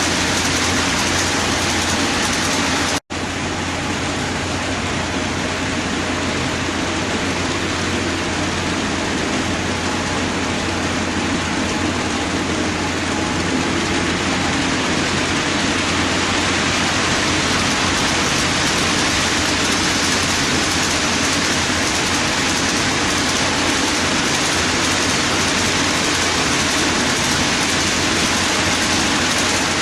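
HO-scale model train running: three Union Pacific GP7 diesel models pulling a long string of 40-foot ice-bunker reefer cars, a steady rolling noise of small wheels on the rails with a low motor hum. The sound cuts out for an instant about three seconds in.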